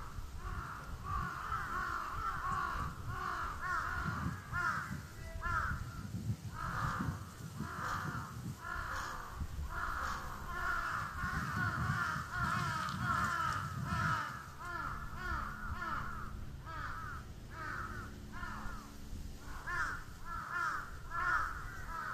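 Crows cawing over and over, several calls overlapping with hardly a break, over a low rumble.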